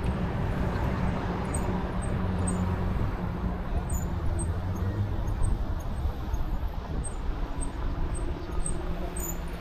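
Road traffic: a motor vehicle's engine running close by, over a steady rush of road and wind noise.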